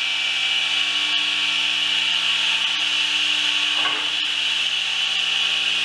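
A woodworking power tool running steadily on wood, a continuous machine hum under a bright, even hiss.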